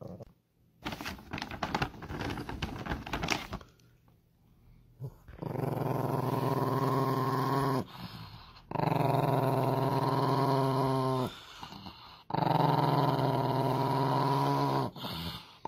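Rustling for a couple of seconds, then a dog growling in long, drawn-out rumbles of about two and a half seconds each, three times with short breaks, and a fourth beginning at the end.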